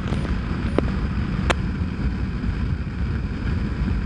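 Motorcycle running down the road with a steady low rumble of engine and wind buffeting the microphone. Two short sharp clicks come through, one near the start and one about a second and a half in.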